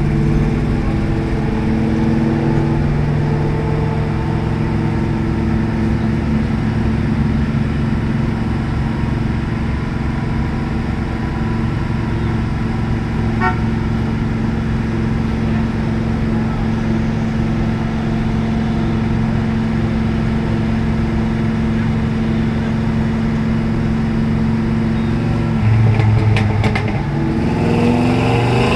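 Turbo diesel truck engine running at a steady speed, a constant droning hum that holds for most of the time and changes pitch briefly near the end.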